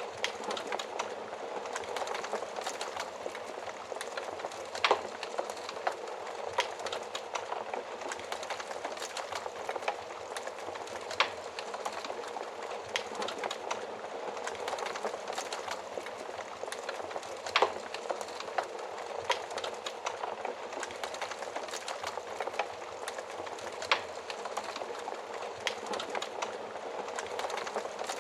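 Wood fire burning in a stove, a steady hiss of flames with scattered sharp crackles and pops, a few louder pops standing out.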